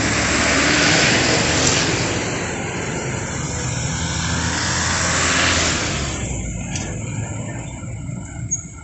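Road traffic: motor vehicles passing close by, two loud pass-bys about a second in and again around five seconds in, over a steady engine rumble.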